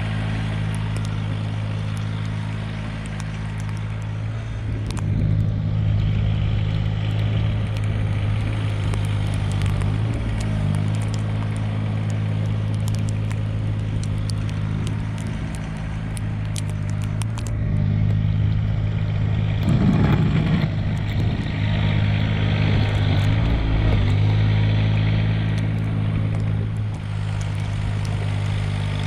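Compact diesel tractor engine (Mahindra eMax 20S HST) running steadily, its pitch and loudness shifting several times as it works under changing load, loudest about twenty seconds in.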